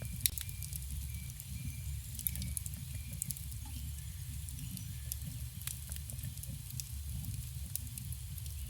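Campfire burning with a steady low rumble and scattered sharp crackles and pops, the loudest pop about a quarter second in.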